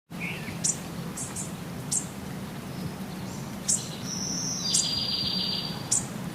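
Birds calling: several short, high chirps scattered through, and about four seconds in a held high note followed by a buzzy trill lasting about a second. A steady low hum runs underneath.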